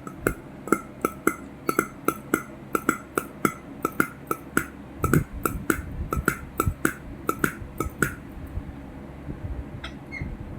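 A quick run of light clinking taps on something hard, each with a brief ring, about two to three a second, stopping about eight seconds in.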